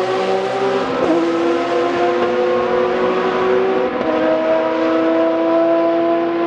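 GT race car engine at full throttle on track, pulling through the gears with two upshifts, about a second in and about four seconds in, the engine note dropping at each shift and then climbing again.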